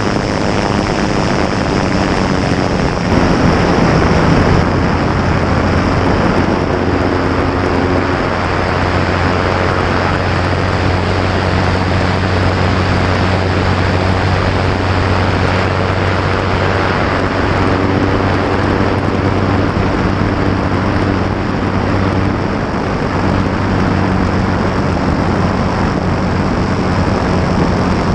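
Light aircraft's piston engine and propeller running close up, with heavy airflow rush over the cowling. The engine note shifts a few times as the aircraft manoeuvres.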